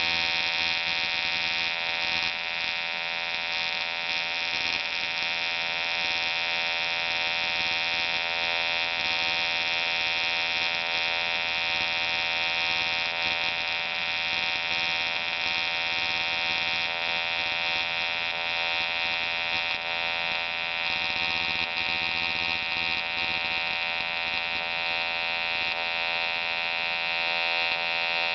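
AC TIG welding arc on aluminium, a steady electric buzz with a constant pitch.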